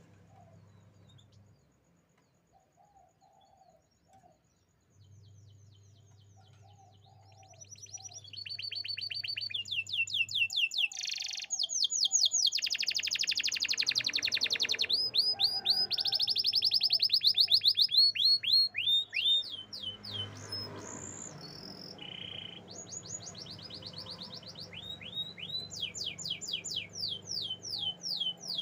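Domestic canary singing: after several quiet seconds it breaks into song about eight seconds in, with fast trills of rapidly repeated high notes and a louder, buzzy rolling passage in the middle.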